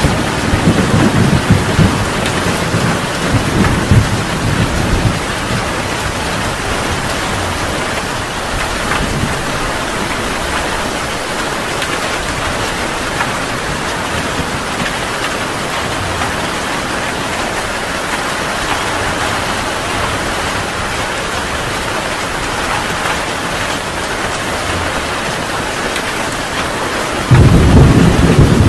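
Heavy rain falling steadily in a thunderstorm. Thunder rumbles low through the first few seconds, and a loud new peal of thunder breaks in suddenly near the end.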